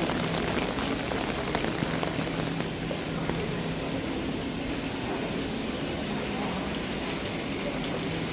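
Rain falling steadily on hard surfaces, with scattered drop ticks and a low steady hum underneath.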